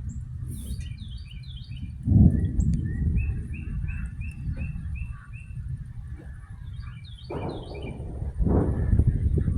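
Birds chirping: a quick cluster of falling chirps, then a run of about eight evenly repeated notes, then another cluster of chirps near the end. Under them runs a low rumble that swells about two seconds in and again near the end.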